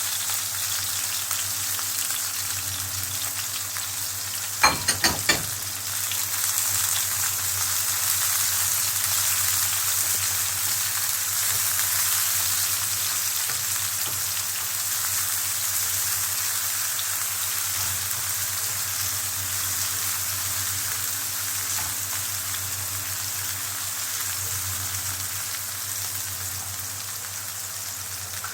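Sliced onion and red pepper frying in hot oil in a pan, a steady sizzle, with a few sharp knocks of the utensil against the pan about five seconds in.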